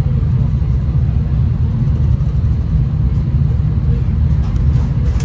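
Steady low rumble of a moving V/Line train heard from inside the carriage: running noise of wheels on rails and the train's drive, with a few faint clicks near the end.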